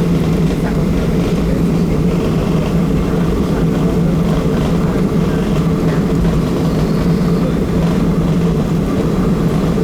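Steady, loud cabin noise inside a Boeing 737-700 with its CFM56-7B turbofan engines running: an even drone with a constant low hum underneath.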